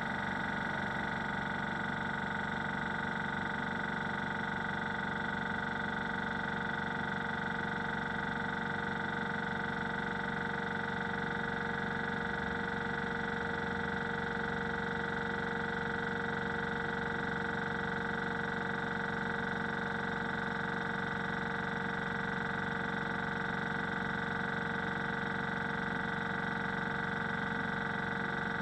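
Hitachi EC1443H high-pressure air compressor running steadily, an even hum with a constant whine that does not change.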